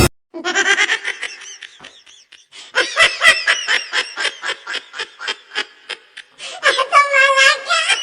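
A person laughing in quick repeated bursts, about four or five a second, in two long spells, then a longer wavering cry near the end.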